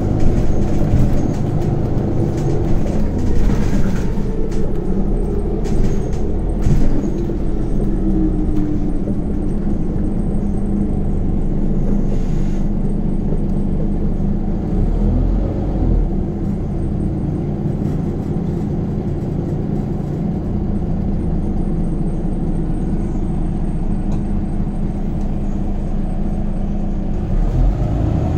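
Scania Omnicity city bus heard from inside the cabin while under way: a steady low drone from the engine and ZF automatic drivetrain over road noise, with a few short knocks or rattles in the first several seconds.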